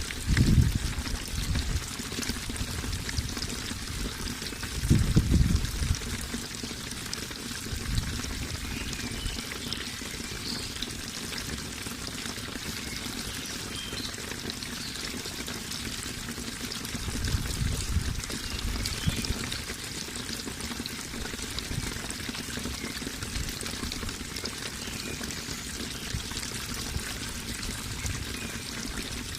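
Running water, pouring and trickling steadily. A deeper surge comes through a few times: just after the start, about five seconds in, and again around seventeen to nineteen seconds.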